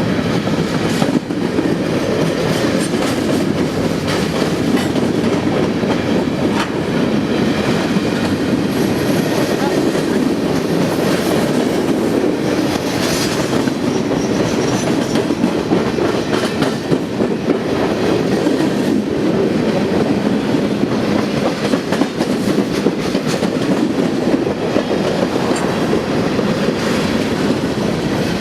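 A train's cars rolling steadily past: a continuous loud rumble of steel wheels on rail, with light clicks as the wheels pass over rail joints.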